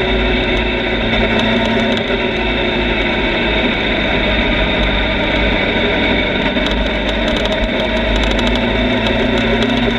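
Motorcycle engine running at a steady cruising speed, with heavy wind noise distorting the on-bike microphone.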